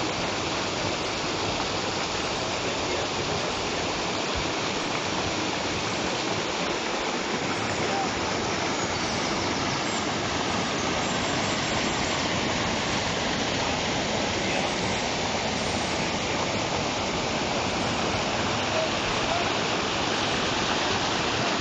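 Flowing river water running steadily over rocks: an even, unbroken rush of water.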